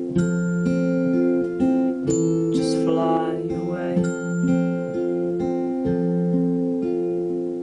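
Acoustic guitar playing an instrumental passage of a song, repeated picked chord notes changing about every half second, with a brief sliding sound about three seconds in.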